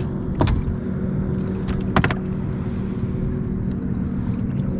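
Boat motor running steadily with a low, even hum, with two short sharp knocks, about half a second in and about two seconds in.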